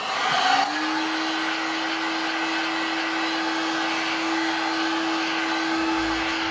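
Heat gun running, a steady fan rush with a whine that rises as it spins up and then holds, cut off at the end. It is heating parts to fit the engine's crankshaft and transmission bearings.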